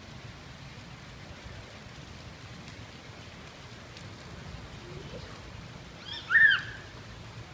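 Steady rain falling, with faint scattered drip ticks. About six seconds in there is one short, loud, high-pitched cry.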